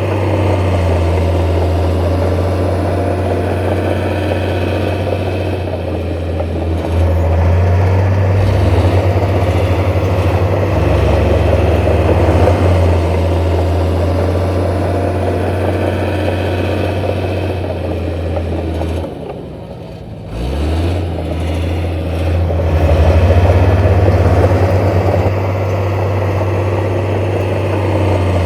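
Heavy diesel engine of earthmoving machinery running with a steady low rumble, its load rising and falling; the sound drops off briefly about twenty seconds in, then picks back up.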